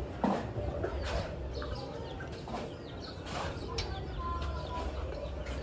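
Birds calling in short bursts, with a few sharp knocks now and then.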